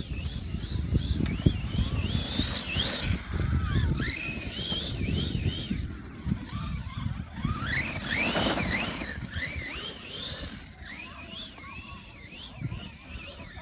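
Cen Reeper 1:7 RC monster truck's electric drive motor whining, the pitch rising and falling quickly over and over as the throttle is worked, over a rough rumble of the drivetrain and tyres in snow.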